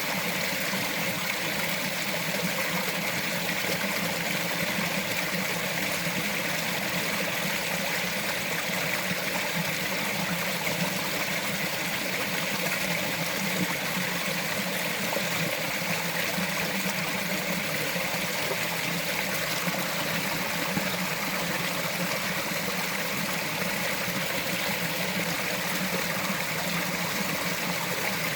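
Small mountain stream flowing and trickling over stones, a steady, even babble of water.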